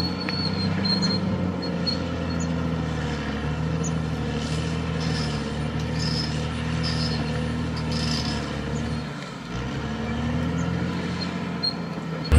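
Caterpillar D6R XL bulldozer's diesel engine running steadily under working load, with a brief dip in its note about nine seconds in and short high-pitched squeaks now and then.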